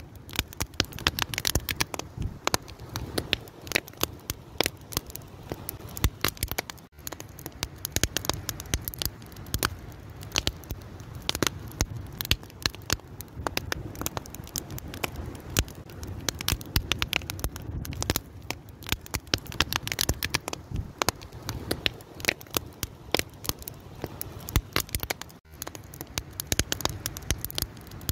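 Wood fire burning, with dense irregular crackles and pops over a low steady rumble of flame. The sound dips out for an instant twice.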